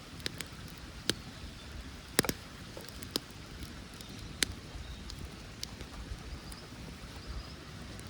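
Wood campfire crackling: a handful of sharp, irregular pops over a steady low rumble.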